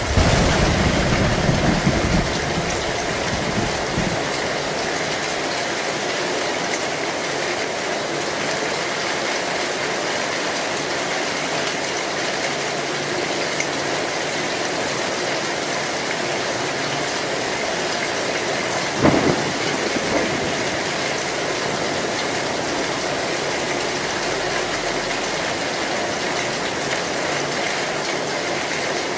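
Heavy rain falling steadily on an old metal roof. A low rumble of thunder fills the first two seconds, and a short sharp crack comes about nineteen seconds in.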